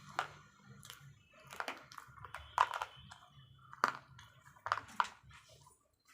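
Slate pencils being bitten and chewed: a series of sharp, crisp crunches, about six of them a second or so apart.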